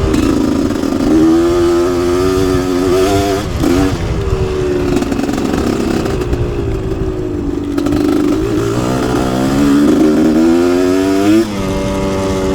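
Dirt bike engine revving under way: the pitch climbs steadily for a couple of seconds, falls away suddenly, then climbs again later and drops sharply as the throttle comes off or a gear changes.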